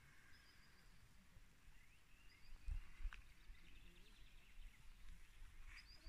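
Faint birdsong over a quiet outdoor background: short chirping phrases and thin whistles. Two dull knocks come about halfway through.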